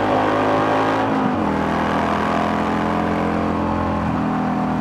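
Harley-Davidson Sportster V-twin engine running at cruising speed under a rush of riding wind. Its note steps down about a second and a half in, then holds steady.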